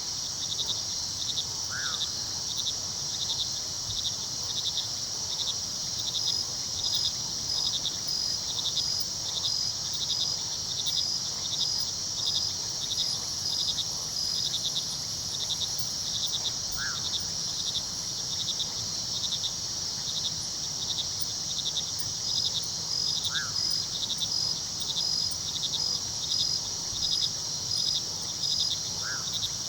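Crickets chirping: a steady high trill with a pulsed chirp about twice a second over it, above the low steady rush of a river. A short high peep sounds four times, several seconds apart.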